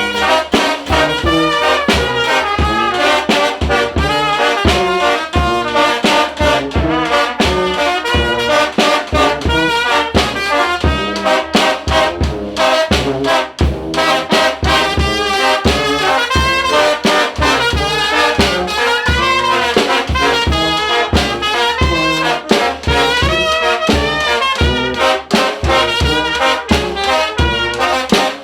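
Mexican banda (wind and brass band) playing: trumpets and trombones carry the melody over a steady, regular beat.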